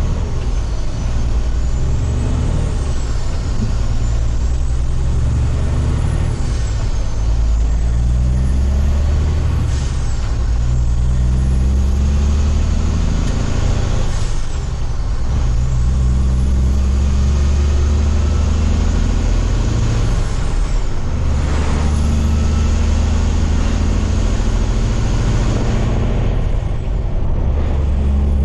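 Heavy diesel dump truck engine pulling hard and shifting up through the gears. The engine note climbs and then drops about four times, and a high whistle rises with the revs and falls at each shift.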